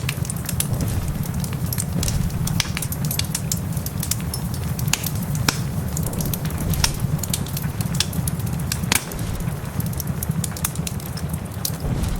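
Wood fire in a fireplace crackling, with many irregular sharp pops and snaps over a steady low rumble and hiss.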